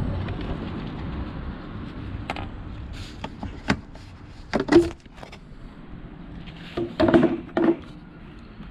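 Hand work on parts in a car's engine bay: scattered clicks and knocks over a steady background hiss, with a louder cluster of knocks near the end.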